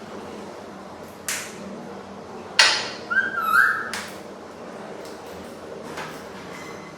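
A pet parrot calling: one loud harsh squawk about two and a half seconds in, followed at once by a few short whistled notes that bend in pitch. A briefer scratchy sound comes about a second in.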